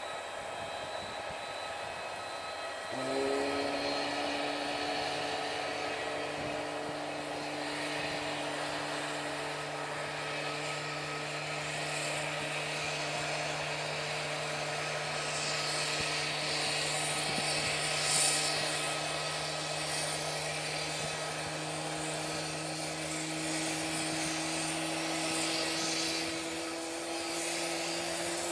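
Aircraft engines running with a steady whine; a lower hum comes in suddenly about three seconds in, and its pitch creeps slowly upward near the end.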